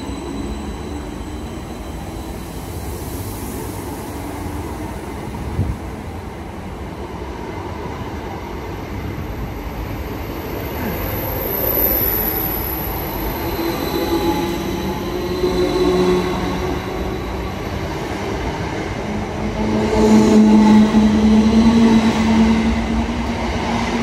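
Class 321 electric multiple unit running slowly along a station platform: a steady rumble of wheels and running gear, a brief high wheel squeal about halfway through, and a humming tone that grows loudest in the last few seconds.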